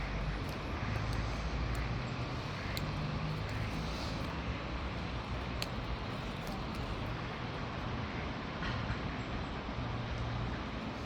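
Steady outdoor background rumble and hiss, with a few faint short clicks.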